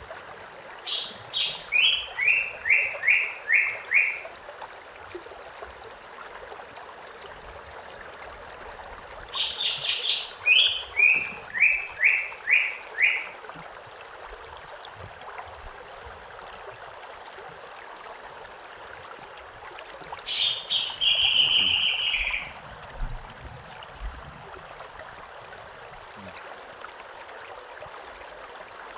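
A songbird sings three phrases, each opening with a few high notes and dropping into a run of shorter repeated notes. The last phrase ends in a drawn-out trill. Under it a stream runs steadily.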